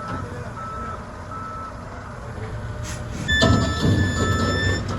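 Reversing alarm on heavy equipment beeping steadily, a little more than once a second, over a diesel engine running. About three seconds in, a louder steady higher tone sounds for about a second and a half with a surge of engine noise.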